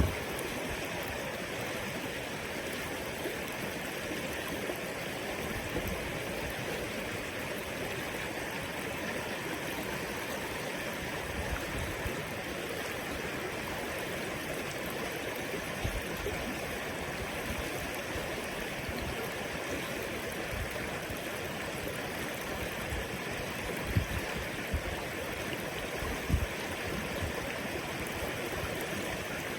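River water flowing steadily over rocks, a constant rushing and gurgling, with a few brief low knocks near the end.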